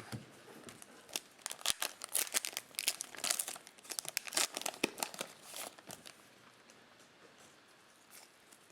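Cellophane wrapper of a Topps Chrome baseball card cello pack crinkling and tearing in a run of sharp crackles, thinning to faint rustling after about six seconds.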